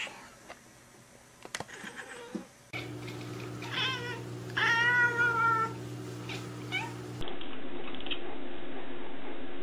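Cat meowing: a short wavering meow, then a longer, louder meow about halfway through, over a steady hum.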